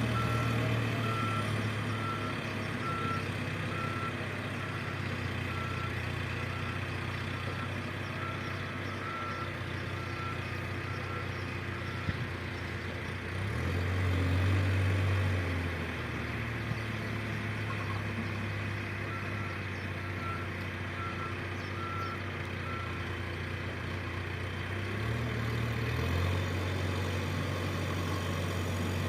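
Backhoe loader's diesel engine running steadily while its reversing alarm beeps in an even series, stopping about a third of the way in and coming back for a few seconds later. The engine revs up briefly about halfway through and again near the end.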